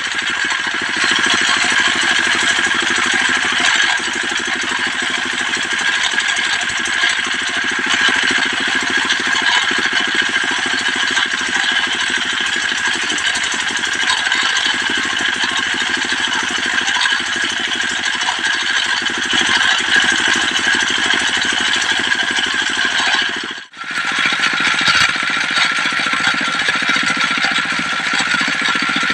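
Diesel-driven mobile circular sawmill running steadily, its saw blade cutting through a trembesu log. The sound cuts out for a moment about three-quarters of the way through, then carries on.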